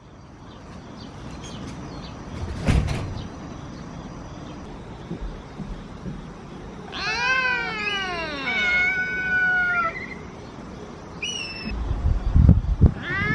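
Cats meowing to demand food: a long meow that falls in pitch about seven seconds in, then more meows, a short high one, and another starting near the end. A single knock sounds about three seconds in.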